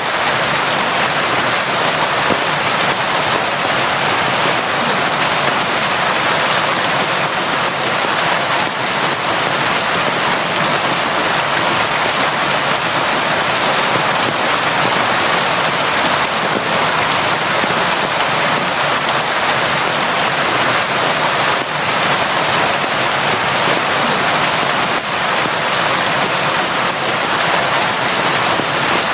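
Steady, heavy rain falling, a constant dense hiss of drops with no let-up.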